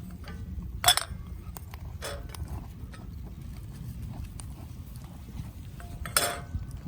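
Scattered light clicks and knocks, with two louder sharp clatters about a second in and near the end, over a low steady rumble.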